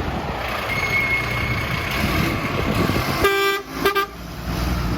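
Converted fire truck pulling away with its engine rumbling, then a horn sounds twice: a toot of about half a second a little over three seconds in, and a shorter one right after.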